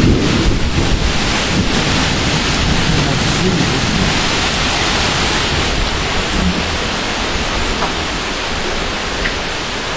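Heavy rain falling steadily in a thunderstorm, an even hiss with low rumbling underneath.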